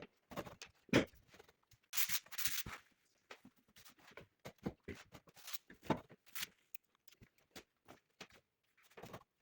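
Scattered small clicks and knocks of tools and parts being handled, with a short rasping scrape about two seconds in.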